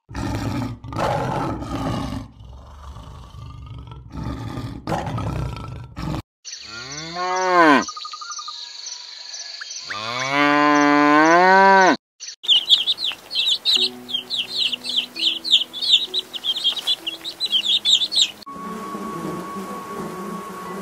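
A few seconds of rough, noisy sound, then a cow mooing twice, each long call rising and falling in pitch. Next come rapid high bird chirps over a few held low notes, and near the end honeybees buzzing at the hive entrance.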